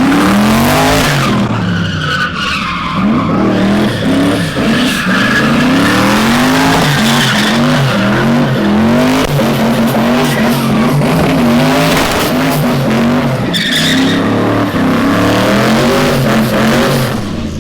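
Drift car's engine revving up and down over and over while its rear tyres squeal and skid through a sustained drift.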